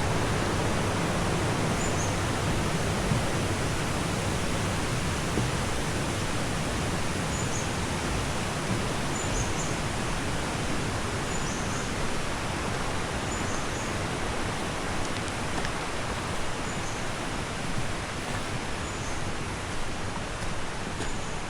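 Steady rushing of a waterfall, with a faint high chirp repeating about every two seconds.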